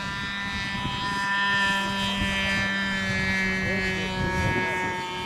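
Radio-controlled model airplane's G-Mark five-cylinder radial engine running steadily in flight, an even buzzing note that shifts slightly in pitch about four seconds in.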